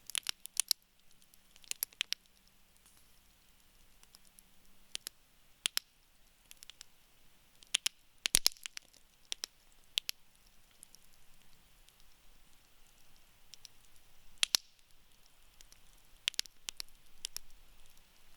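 Wood campfire crackling: irregular sharp pops and snaps, some in quick clusters, over a soft hiss of burning wood. The loudest pop comes a little past the middle.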